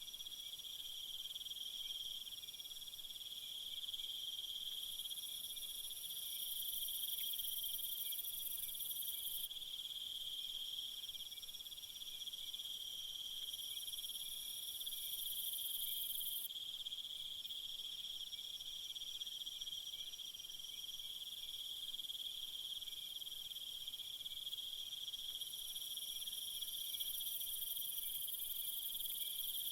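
Crickets chirring in a steady chorus, joined three times by a higher, hissing insect buzz that lasts a few seconds each time.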